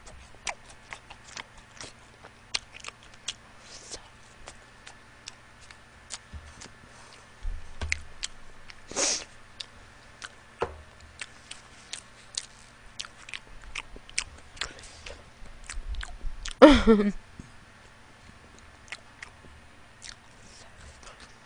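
A person chewing and biting food close to the microphone, with many small mouth clicks. A brief voiced sound comes about 17 seconds in and is the loudest moment.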